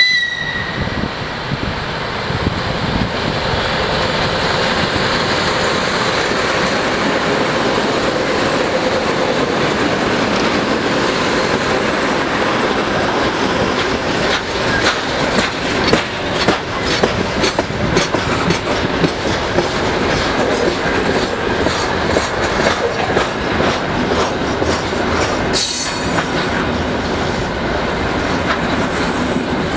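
A 2TE116 two-section diesel locomotive passes at close range, its diesel engines running, followed by a long freight train of grain hopper wagons. The wagons' wheels give a steady clickety-clack over the rail joints, with a brief high-pitched screech about 26 seconds in.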